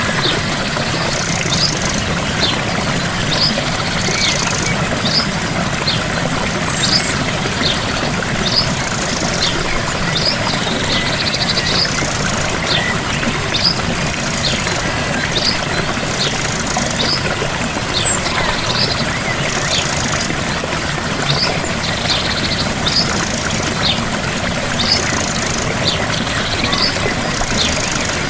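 Small waterfall splashing and pouring steadily, with a bird repeating short, high, falling chirps about once a second.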